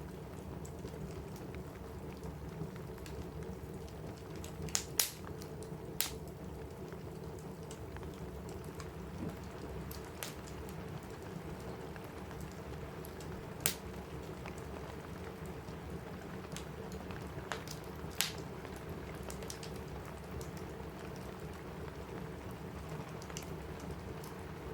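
Steady rain on a cabin roof with a wood fire crackling, broken by a few sharp pops: a cluster about five to six seconds in, then single ones later on.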